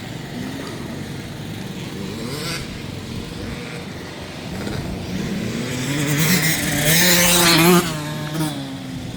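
Dirt bike engine accelerating, rising in pitch and growing louder to a peak, then cutting back sharply about eight seconds in, over the background running of other engines.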